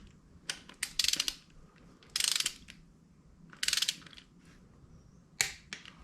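Hand ratchet wrench clicking in three short quick strokes, with a few single metal clicks and knocks of tools between them.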